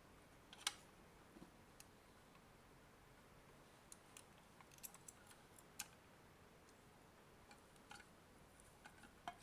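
Faint, scattered small clicks and taps of metal tweezers handling the small plastic and circuit-board parts of a power adapter, the sharpest one just under a second in.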